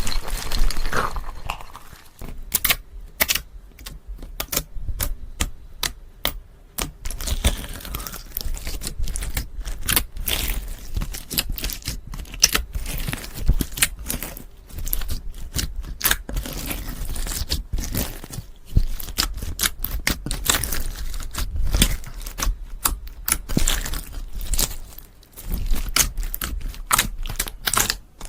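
Close ASMR trigger sounds: rapid, irregular crackling and tapping clicks, sparser for a few seconds near the start.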